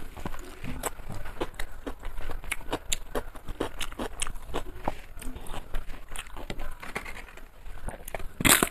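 A person chewing and crunching food close to the microphone: many short crisp crunches, with a louder crunch near the end.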